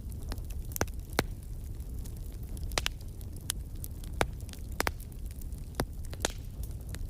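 Wood fire crackling in a fireplace: sharp pops about once a second over a steady low rumble of the flames.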